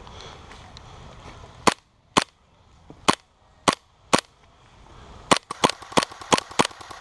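Gas blowback airsoft gun firing: five single shots about half a second apart, then, about five seconds in, a quicker string of about six shots.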